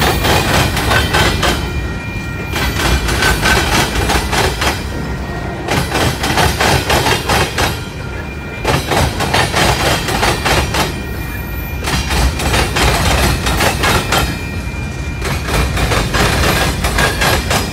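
Freight train cars rolling past close by: steel wheels clattering and banging over the rails, louder and quieter in turn about every three seconds, with a thin steady squeal underneath.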